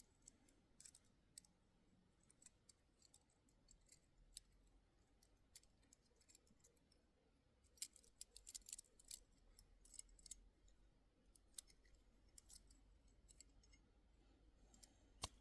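Faint, irregular clicks and light taps, busiest about eight to ten seconds in, with one sharper click near the end.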